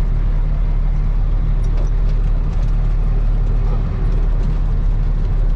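Truck's diesel engine running steadily, heard from inside the cab as a deep, even drone, with a few light rattles.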